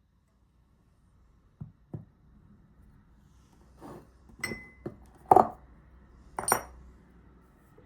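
Hard household items being handled and set down: two soft knocks, then about five sharper clinks, two of them with a brief glassy ring, the loudest a little past the middle.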